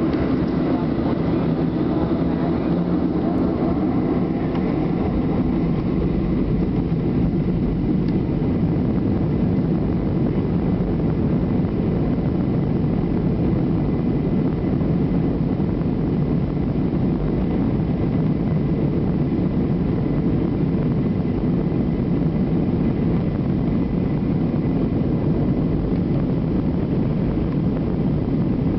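Boeing 737 jet engines at high takeoff thrust, heard from inside the passenger cabin as a steady, loud noise of engines and airflow.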